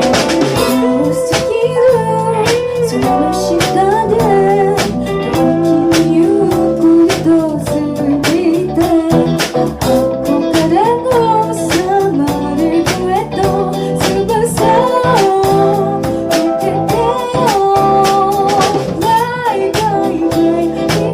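City pop song performed by a band: a singer's melody over guitar, bass and a steady drum beat.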